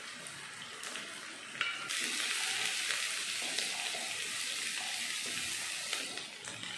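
Sliced onions, green chillies and ginger frying in oil in a pan, stirred with a wooden spatula. A steady sizzle that gets louder about two seconds in, with a few small clicks.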